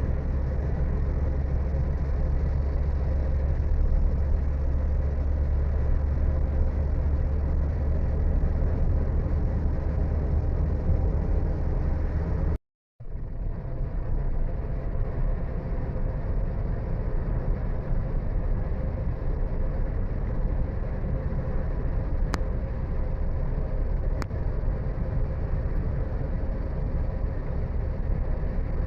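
Road vehicle on the move: a steady, low rumble of engine and tyre noise. It cuts out completely for a moment about halfway through.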